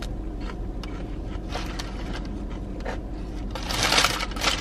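Chewing a bite of a ciabatta-roll sandwich, with faint crunches, over a steady low hum in a car cabin. About three and a half seconds in, the sandwich's paper wrapping rustles loudly for about a second.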